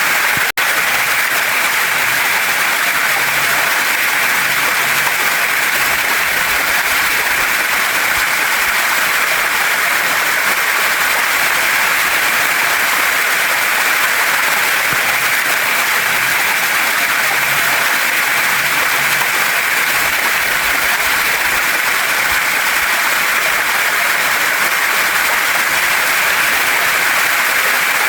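Waterfall and stream water rushing steadily in a dense, even hiss, with a split-second dropout about half a second in.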